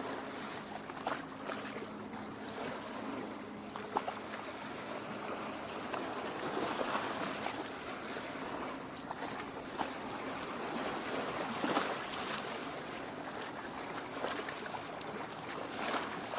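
Small lake waves lapping and splashing against the shore, a steady wash broken by many small irregular splashes.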